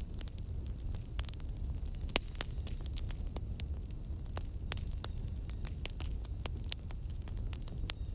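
Wood fire burning in a fireplace, crackling with many sharp pops scattered irregularly over a steady low rumble of the flames.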